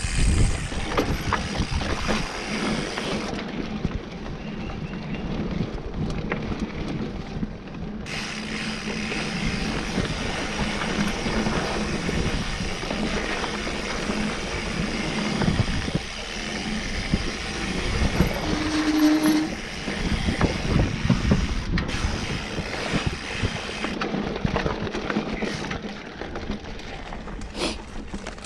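Mountain bike riding over a rough dirt trail: steady tyre noise with the chain and frame rattling and knocking over bumps, and one brief squeal about two-thirds of the way through.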